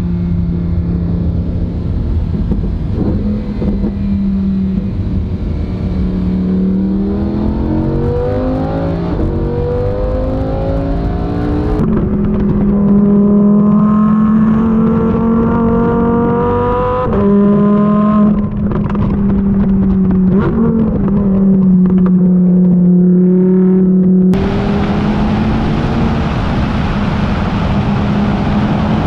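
Lamborghini Huracán EVO's naturally aspirated 5.2-litre V10 pulling hard, its pitch climbing in several rises, each broken off by a sudden drop, about 12 and 17 seconds in. It then holds a steady note. For the last few seconds a loud rush of wind on the microphone joins the engine.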